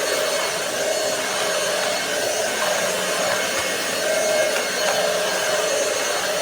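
Roomie Tec SlimVac cordless stick vacuum running steadily while vacuuming: a continuous motor whir and rush of air, with a tone that wavers slightly as it works.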